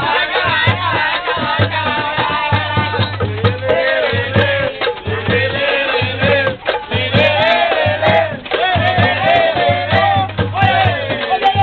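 A group of people singing a bumba-meu-boi song loudly together over hand percussion beating a steady rhythm.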